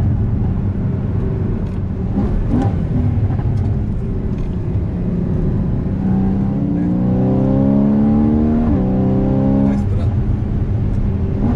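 Porsche Cayman GTS engine under hard acceleration. First a steady engine and road rumble; then, about halfway through, the engine note climbs, dips at a quick upshift, climbs again and drops away as the throttle is lifted.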